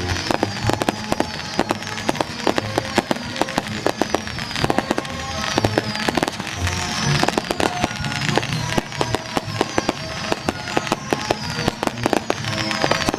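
Dense, irregular crackling of firecrackers going off in rapid succession, with music playing underneath.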